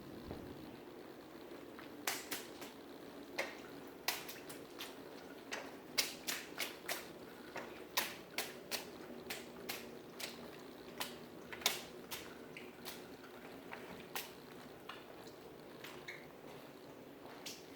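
Water dripping irregularly from a leak in heavy rain, with sharp drips of varying loudness about one to three a second over a steady low hum.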